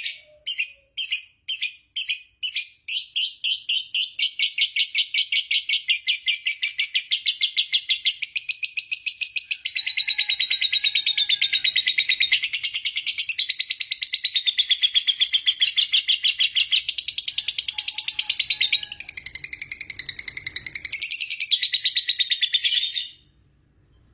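Lovebird giving a long ngekek chatter: separate high chirps quicken over the first few seconds into one continuous, very rapid trill that runs for about twenty seconds and then stops abruptly.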